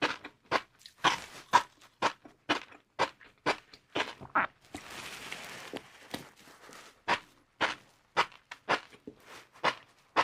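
Close-miked chewing of crunchy fried noodles: sharp crisp crunches about twice a second, with a longer soft hissing stretch about five seconds in.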